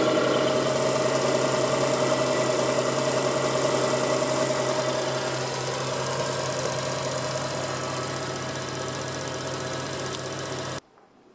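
Suzuki Cappuccino's small three-cylinder engine idling steadily. The sound starts abruptly, eases a little in level, and cuts off suddenly near the end.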